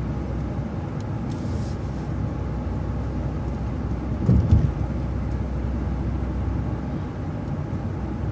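City transit bus driving, with a steady engine and road rumble heard from inside the bus. A short, louder low thud comes about four and a half seconds in.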